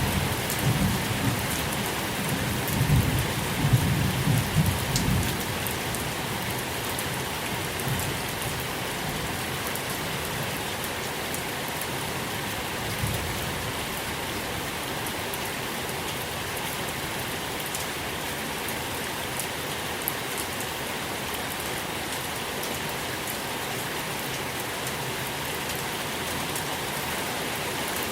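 Steady rain falling, with scattered drops ticking on a surface. A low rumble of thunder dies away over the first five seconds or so.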